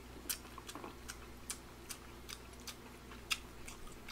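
Close-miked chewing of a mouthful of rabokki (chewy rice cakes and ramen noodles): irregular wet mouth clicks and smacks, about three a second, over a low steady hum.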